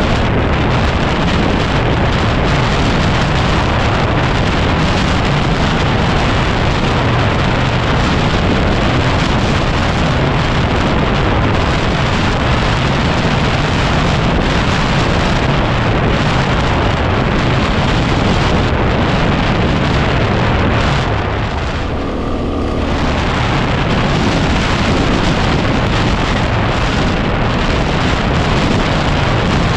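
Heavy wind buffeting on the microphone while riding a 2010 Yamaha WR250R, a single-cylinder four-stroke trail bike, with its engine running underneath. About 21 seconds in, the wind drops for a second or two and the engine's note comes through more clearly before the wind noise returns.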